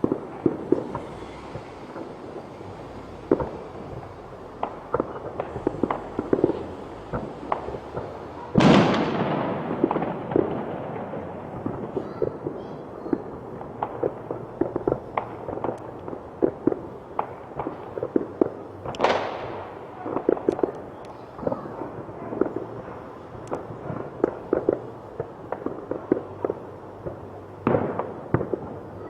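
Fireworks going off: a continual scatter of small pops and crackles, with two much louder bangs about eight and a half and nineteen seconds in, each fading out over a second or two.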